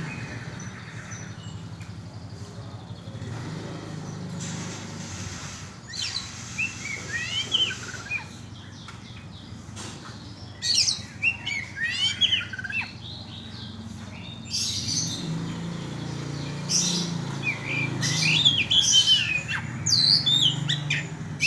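Oriental magpie-robin (kacer) singing in several bursts of rapid, varied whistled phrases, over a steady low hum.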